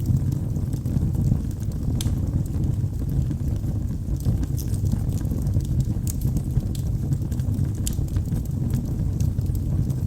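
Wood fire of burning logs in a fireplace: a steady low rumble of flames with irregular sharp crackles and pops, a sharper pop about two seconds in.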